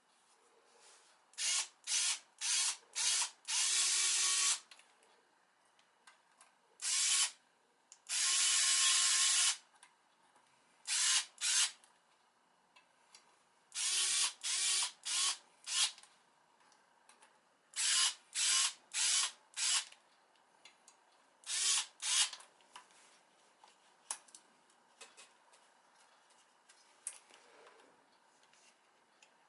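A small electric power tool run in short trigger bursts of under a second, in groups of three to five, with two longer runs of one to one and a half seconds, each with a steady motor whine.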